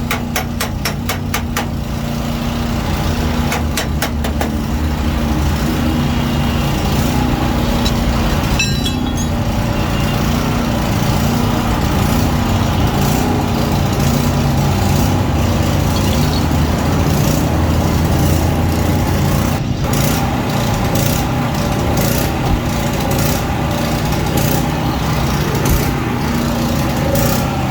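A motor or engine running steadily, with a series of sharp ticks or taps over it at times.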